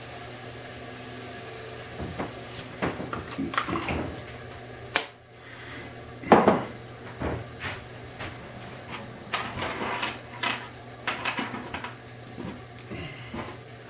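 Scattered clinks and knocks of hard objects being handled in a small room, the loudest a little over six seconds in, over a steady low hum.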